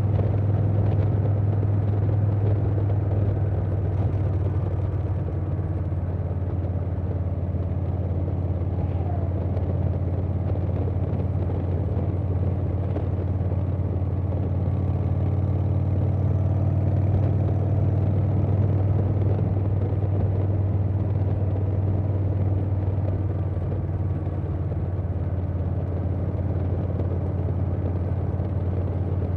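2020 Harley-Davidson Softail Standard's Milwaukee-Eight V-twin running steadily at cruising speed through a Vance & Hines Big Radius 2-into-2 exhaust, a deep, even note with wind noise over it.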